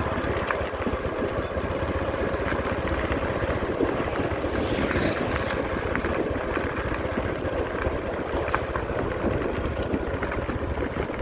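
Heavy road-construction machinery running steadily: a continuous diesel engine drone with a few sharp clicks.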